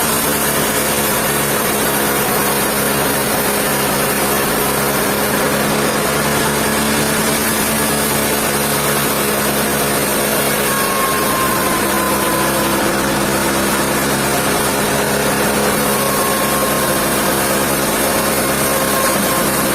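Sawmill machinery running steadily: an even motor hum with a constant hiss, unchanged throughout.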